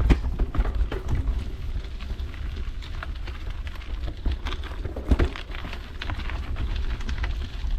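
Mountain bike rolling along a trail: tyres crackling over the ground and the bike rattling, with wind rumbling on the microphone and a sharper knock about five seconds in.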